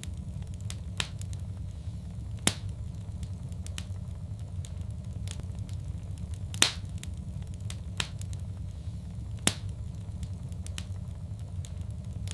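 Wood fire crackling in a fireplace: about five sharp pops scattered through, the loudest about six and a half seconds in, with faint ticking between them over a steady low rumble.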